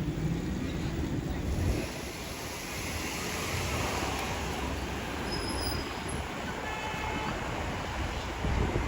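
Steady road and wind noise from riding a two-wheeler through traffic, with a heavier low rumble for the first two seconds and a faint brief high tone about seven seconds in.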